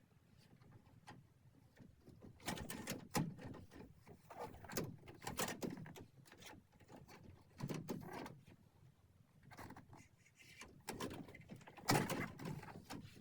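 Plastic front panel of a Daikin Risora room air conditioner being handled and fitted onto the indoor unit: irregular clusters of plastic knocks, clicks and scraping.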